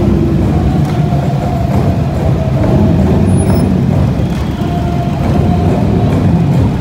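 Engines of several Can-Am Spyder three-wheeled motorcycles and a cruiser motorcycle running at low speed as they ride slowly past, a steady low rumble.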